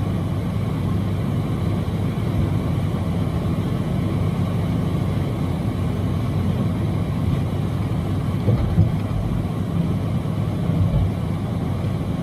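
Steady drone of a semi truck's diesel engine with road noise, heard inside the cab while driving, and a couple of faint knocks near the end.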